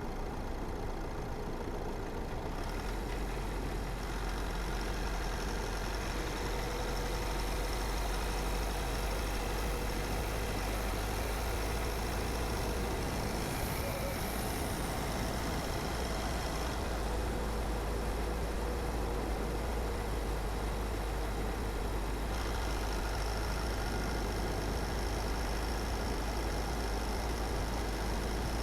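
Car driving at a steady pace: engine and tyre noise on the road, a steady low rumble.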